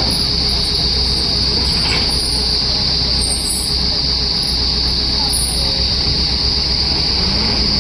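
Steady, high-pitched drone of an insect chorus, with fainter short chirps scattered above it and a low steady rumble underneath.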